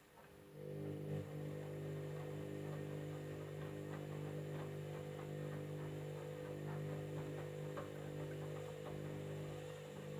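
Candy washing machine running on a jeans cycle: a steady electric hum starts about half a second in and holds, with faint irregular ticking over it.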